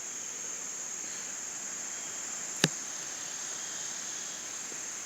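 Insects calling in a steady, high-pitched chorus that goes on without a break. A single sharp click sounds about two and a half seconds in.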